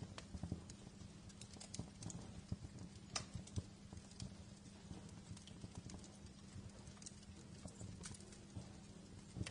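Wood fire in a fireplace crackling: irregular sharp pops and snaps, a few louder ones standing out, over a faint steady hiss.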